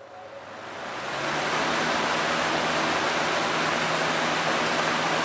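Vintage Country Aire 14-inch box fan with a GE motor spinning up: the rush of air builds over about a second and a half, then runs steady with a low motor hum under it. It sounds just like an attic fan starting up.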